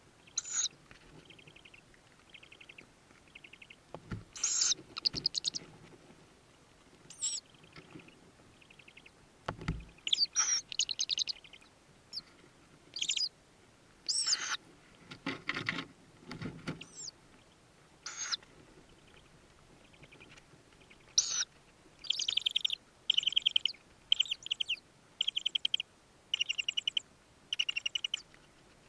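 Tawny owl chicks calling in the nest box: short high chirps and raspy, rapidly pulsed calls in repeated bouts, thickest in the last third. A couple of soft bumps of movement in the box.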